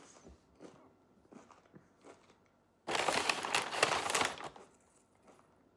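Food wrapper crinkling loudly for about a second and a half, midway through, after a few faint small clicks.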